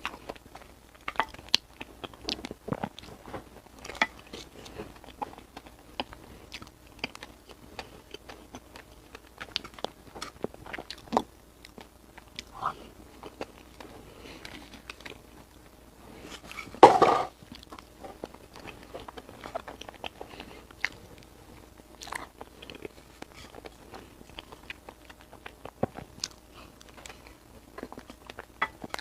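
Close-miked chewing and biting, with many small, irregular wet mouth clicks and smacks. About halfway through there is one louder, brief burst.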